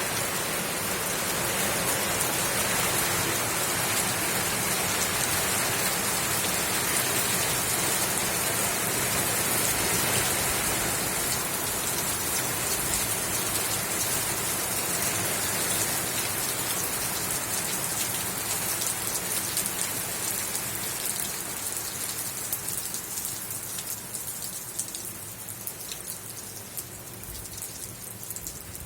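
Steady rain falling, a dense patter of many drops, easing off gradually over the last several seconds.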